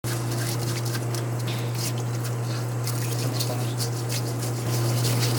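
Steady low machine hum with scattered light ticks and clicks over it, growing a little louder near the end.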